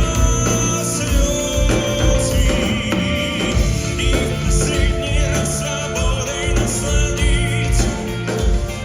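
A live song performance: a man singing with vibrato over a band's accompaniment, with a steady bass line underneath.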